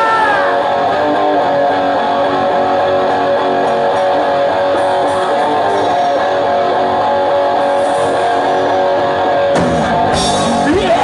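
Distorted electric guitar played live at loud volume, a chord held and ringing with a pitch bend right at the start. A sudden hit about nine and a half seconds in, followed by bending guitar notes.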